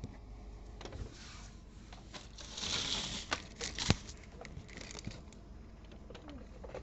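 Small plastic toy building pieces being handled and clicked together, with scattered clicks, a rustling burst about three seconds in and one sharp click just before the fourth second.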